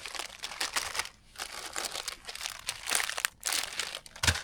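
Plastic food packaging, such as an instant-noodle packet, crinkling and rustling as it is handled, with a soft thump near the end.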